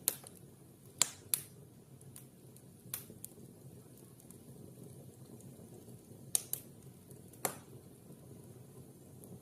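Fire burning in a fireplace, crackling over a steady low hiss, with sharp irregular pops, about seven loud ones spread across the few seconds.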